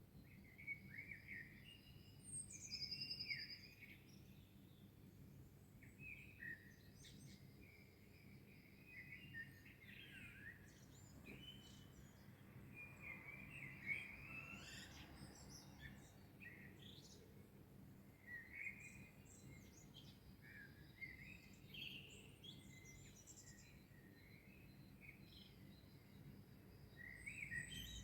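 Several songbirds singing faintly in a dawn chorus, with overlapping chirps, whistled phrases and short trills over a low, steady background rumble.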